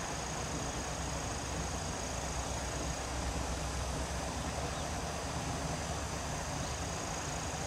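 Diesel-hauled S-Train passenger train rolling away into the distance on single track, a steady low rumble. A thin steady high whine sits over it.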